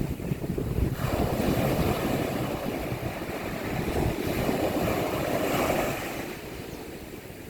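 Sea waves breaking on a beach: a wash of surf that swells about a second in, holds, and falls away near the end, with wind buffeting the microphone.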